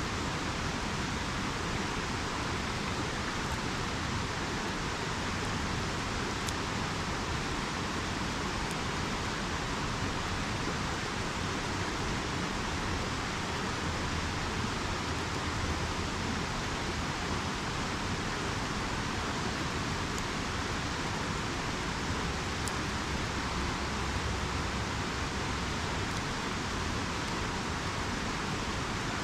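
A river rushing steadily, with a few faint crackles from a campfire.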